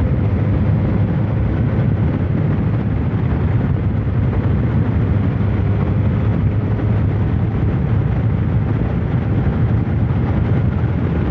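Kawasaki ZR-7's air-cooled inline-four engine running at a steady cruise under way, a steady low hum over a rush of wind and road noise.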